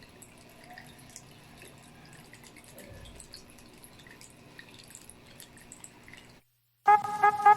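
Water trickling and dripping over a small tabletop waterfall, a faint patter of small drips. Near the end it cuts off briefly, and a much louder sound with several steady pitched tones and a regular pulse begins.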